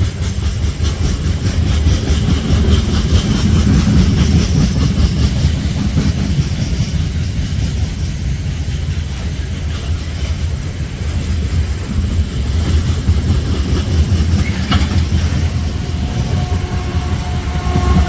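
A train running past on the rails, with a steady, loud rumble.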